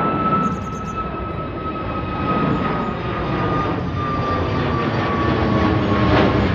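Departing airliner's engines at takeoff power: a loud rumble with a whine that slowly falls in pitch.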